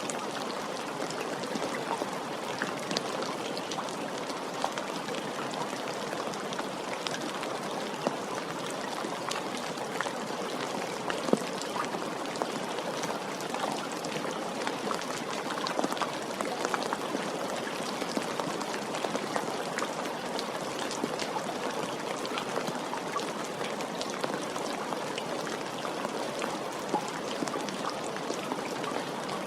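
Steady rain falling, a dense even patter with many individual drops striking nearby surfaces.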